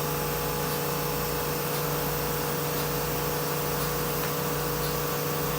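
Spindle of a 2008 Anderson CNC router running steadily at 9,000 RPM, a constant-pitch machine tone over a noisy hiss with no rise or fall.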